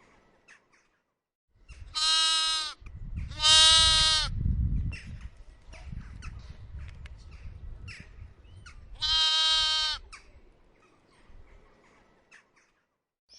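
A farm animal bleating three times: two loud bleats close together, then a third about five seconds later. A low rumble runs under and between the calls.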